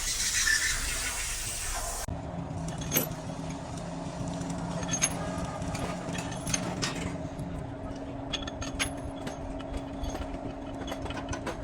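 Workshop noise: a steady machine hum with scattered sharp clicks and metal taps. A hissing stretch before it cuts off suddenly about two seconds in.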